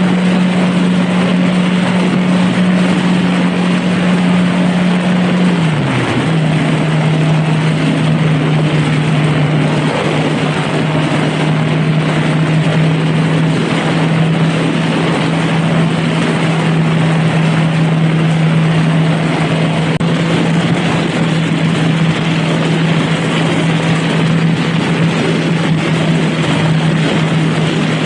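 Honda Rebel motorcycle engine running at a steady cruise under a broad rush of wind and road noise. The engine note dips slightly about six seconds in, then holds steady.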